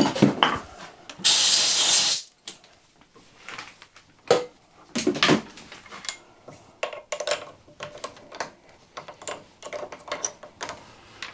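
Metal tools and parts being handled: scattered clicks, clinks and knocks, with a hiss lasting about a second near the start.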